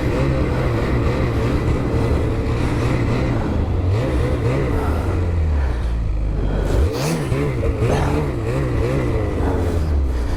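Ski-Doo 850 snowmobile's two-stroke engine running under throttle while riding through snow, its pitch rising and falling repeatedly as the rider works the throttle. About seven seconds in the revs drop sharply for a moment, then climb again.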